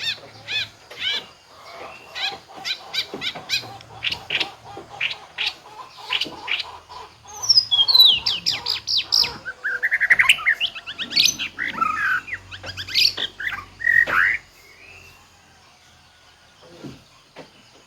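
White-rumped shama singing a rapid, varied song of chirps, whistles and sliding notes, pouring out its learned mimicked phrases. The song stops about three-quarters of the way through, leaving only faint background.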